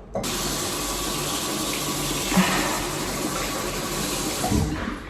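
Water running hard from a tap, turned on suddenly and shut off after about four and a half seconds, with a brief knock about halfway through.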